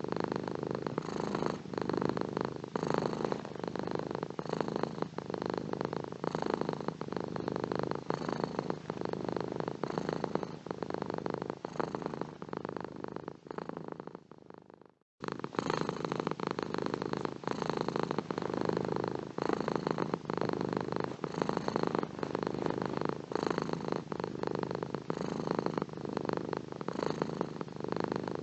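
Domestic cat purring steadily. About halfway through, the purr fades away to silence, then starts again abruptly.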